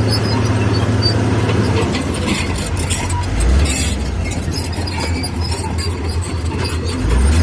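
Diesel engine of heavy earthmoving machinery running steadily, its note dropping about two seconds in, with scattered clanks and rattles over it.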